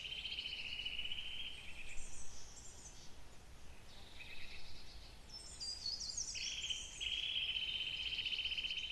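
Woodland birdsong from several birds. A long, rapid trill runs at the start and again from about six seconds in. Between the trills come shorter high phrases that step down in pitch.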